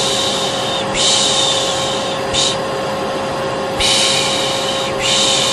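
Steady hum of a vacuum cleaner with repeated 'shh' shushing over it, each shush about a second long, with a pause of about a second in the middle; a shushing and vacuum white-noise mix of the kind used to soothe a baby.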